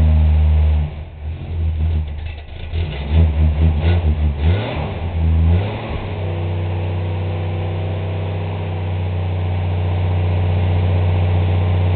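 1960 Dodge Dart Seneca's engine running cold after sitting for months: about a second in it falters and runs unevenly for several seconds, then settles into a steady idle that slowly gets louder.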